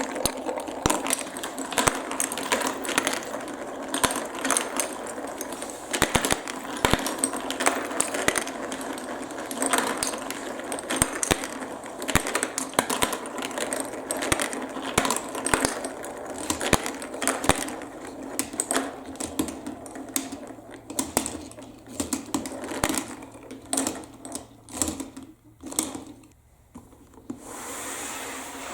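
Marbles rolling and clattering down a plastic building-block marble run: a dense stream of clicks and clacks that thins out to a few scattered ones near the end.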